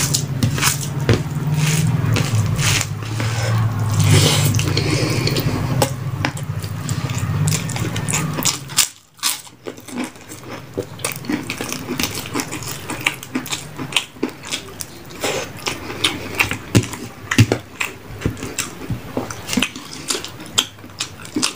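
Close-miked eating sounds: wet chewing of rice and fish curry, with many short crisp clicks of bites. A low hum underneath stops abruptly about nine seconds in.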